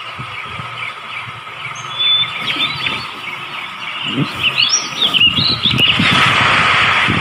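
Bird-like chirps and short squeaky calls over a steady tone, with a hiss swelling up over the last second or so.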